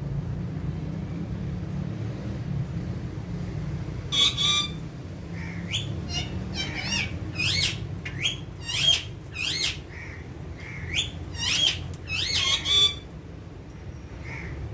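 Alexandrine parakeets giving a run of loud, short squawks, each call sliding in pitch. The calls begin about four seconds in and stop shortly before the end, over a low steady hum.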